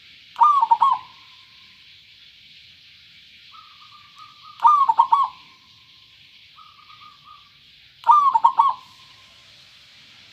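Zebra dove cooing three loud rolling phrases, about three and a half seconds apart. The second and third phrases are each led in by a softer trilled note.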